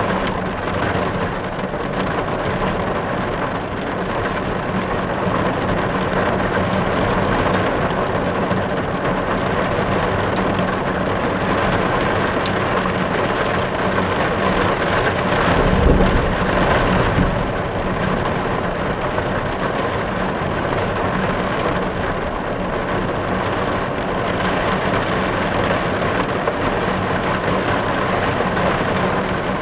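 Steady rain falling on a car's roof and windows, heard from inside the car, with a brief low rumble about halfway through.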